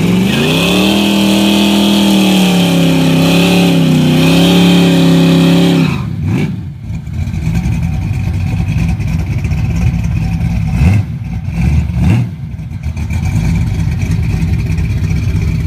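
Car engine revved hard and held at high revs, wavering, for about six seconds, then falling back to a low rumble. Two short throttle blips come near the end.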